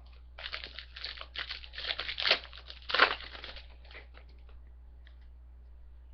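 Trading-card pack wrapper crinkling and being torn open, a run of crackling for about three seconds, loudest near its end, followed by a few light clicks.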